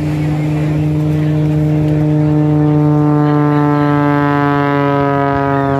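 A loud motor engine droning at a steady pitch, which slowly sinks about four seconds in as it passes by.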